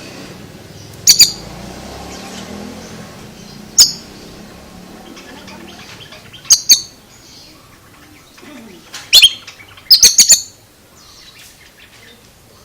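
Oriental magpie-robin (kacer) giving short, sharp, high calls, singly or in pairs, every two to three seconds, with a quick run of four near the end.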